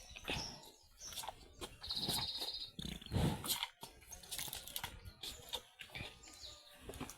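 Cow slurping and gulping water from a bucket, in irregular soft gulps and knocks, with a short high trill about two seconds in.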